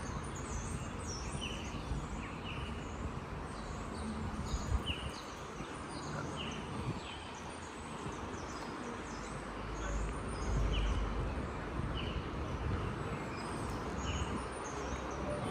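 Small birds chirping over steady outdoor background noise, with many short high calls that each drop quickly in pitch. A low rumble swells for a couple of seconds about nine seconds in.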